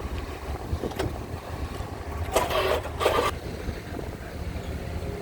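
Steady low rumble of strong wind buffeting the microphone over a ferry's running engines, with two short bursts of hiss a little over halfway through.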